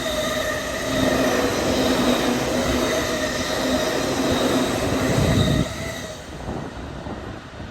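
JR East E231-0 series electric commuter train pulling out of a station: traction motors whining in several steady tones over the rumble of the wheels on the rails. The sound drops off sharply about five and a half seconds in as the train moves away.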